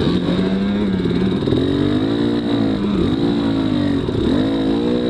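Dirt bike engine working up a hill climb, its revs rising and falling over and over as the throttle is opened and eased.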